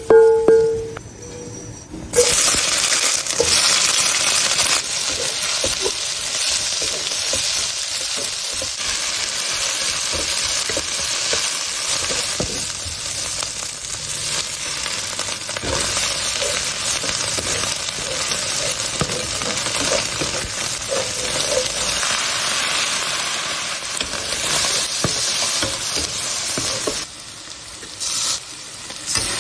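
Green peppers and scrambled egg stir-frying in a hot black wok: a steady sizzle with the scrape and clicks of a metal ladle, starting about two seconds in after a short ringing clink of metal on the dish. Near the end the sizzle drops away briefly, then resumes.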